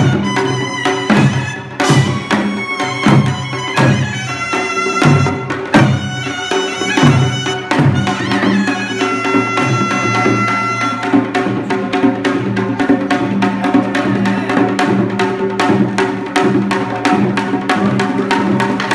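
Korean traditional instrumental music: a reedy wind instrument plays held, nasal notes over drum and percussion strikes. The strikes come thick and fast for the first half, then the playing settles into steadier sustained tones.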